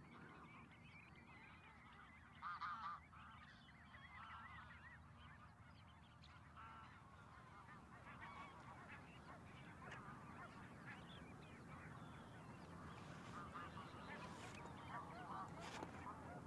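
Faint wild bird calls, with a louder group of short calls about two and a half seconds in and scattered calls after it.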